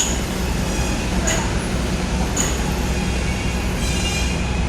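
Subway train running into the station with a steady low rumble and sharp wheel clicks about once a second. High wheel squeal comes in near the end.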